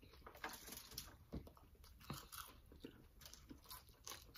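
Faint close-up eating sounds: quiet chewing with a few soft crunches and clicks scattered through, from fried food and crawfish being eaten.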